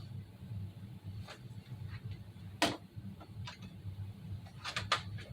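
Sharp plastic-and-metal clicks from an airsoft gun being handled during a tactical reload drill: a single clearer click near the middle and a quick double click near the end, over a steady low hum.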